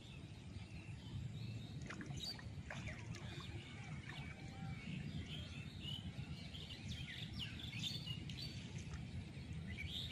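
Birds chirping and calling in quick short notes starting about two seconds in, over a steady low background rumble.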